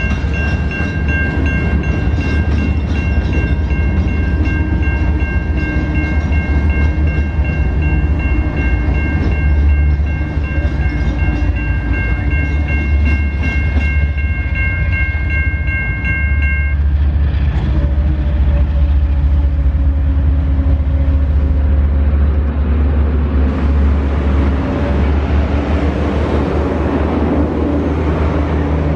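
A train passing over a level crossing, its heavy low rumble running throughout. The crossing's warning bell rings rapidly over it and stops abruptly a little past halfway.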